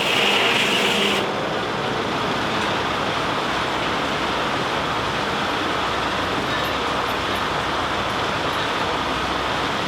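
Steady mechanical running noise of a steam-powered sawmill at work, with a hiss that cuts off suddenly about a second in.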